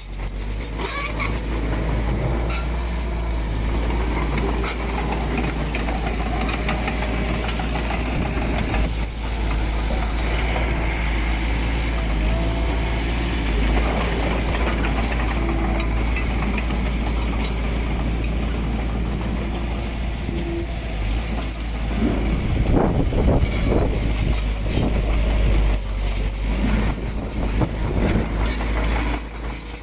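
Heavy diesel earthmoving machinery running steadily with a deep engine rumble, brief squeals and clanking, and a louder stretch about 22 seconds in.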